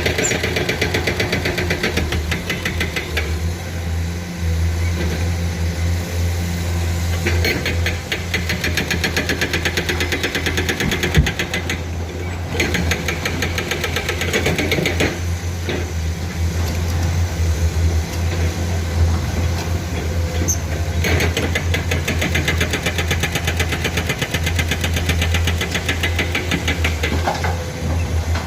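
Excavator diesel engine running steadily, with a deep hum and a few sharp clanks.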